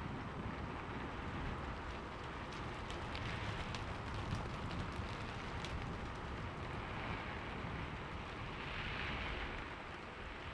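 Steady rain falling, with a low continuous rumble underneath and a few sharp drop ticks in the middle.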